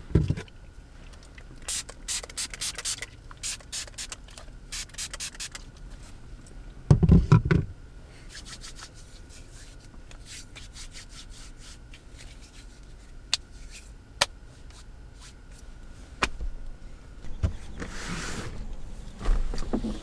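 Clusters of short clicks and rustles, with a heavy thump about seven seconds in and a faint steady high tone that stops near the end.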